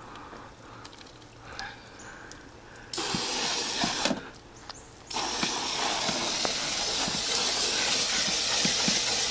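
Garden hose spraying water hard into a window air conditioner's dirty coil fins: a short burst about three seconds in, then a longer steady spray from about five seconds on.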